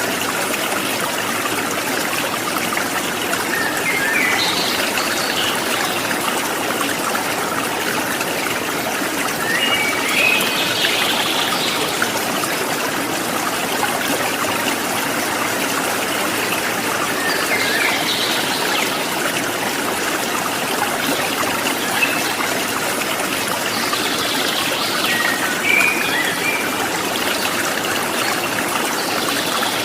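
Water trickling and gurgling steadily, like a small stream, with short bird chirps every few seconds.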